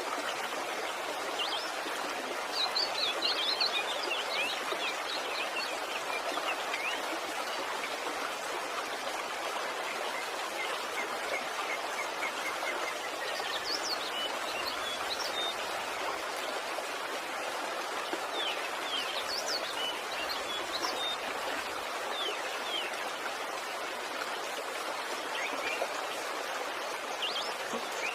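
Waterfall: a steady rush of falling water, with birds chirping over it in short clusters a few seconds in, around the middle and near the end.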